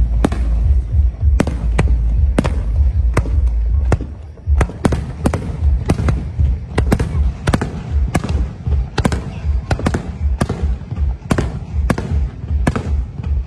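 Fireworks display: a rapid, irregular string of sharp bangs, well over a dozen, over a low rumble that pulses in the second half.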